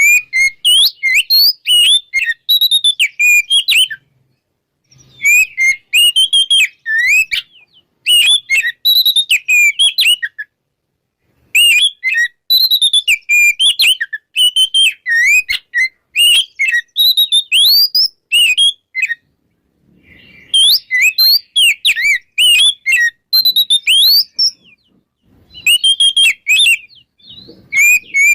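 Oriental magpie-robin singing loudly in full song: bouts of rapid, varied whistled notes a few seconds long, broken by short pauses.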